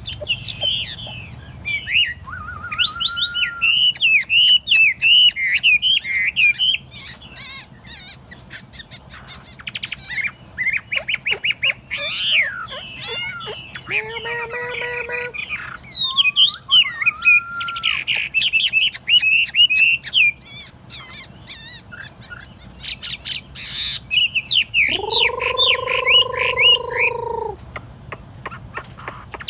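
Chinese hwamei (họa mi) singing a loud, fast, varied song of whistled phrases with sharp clicking notes, broken by short pauses. Near the end comes one lower, drawn-out call lasting about two seconds.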